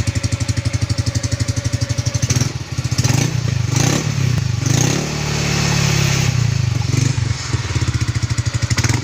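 Yamaha Mio M3 scooter's single-cylinder engine, bored to 130 cc, running through a road-race exhaust. It starts at a loping idle, is blipped several times from about two and a half seconds in with one longer rev around the middle, then settles back to the loping idle near the end.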